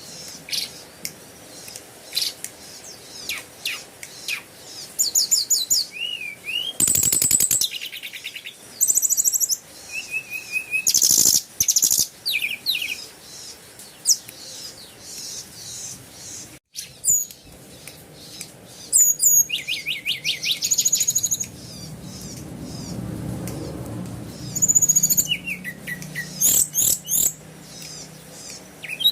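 Birds chirping and trilling: many short, high calls and quick trills, some rising and falling, through the whole stretch. A low hum comes in about two-thirds of the way through.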